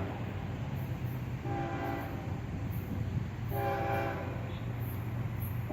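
Approaching Florida East Coast Railway freight train: a steady low rumble, with a short pitched tone sounding about every two seconds.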